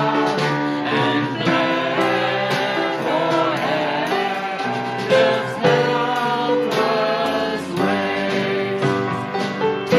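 A congregation singing a hymn with a band of piano and drums, a steady beat under the voices.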